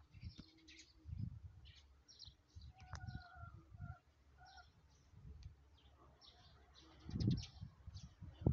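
Small birds chirping in many short high notes, with a few brief clear whistled calls a little past the middle. Low muffled thumps come and go underneath, the loudest about seven seconds in.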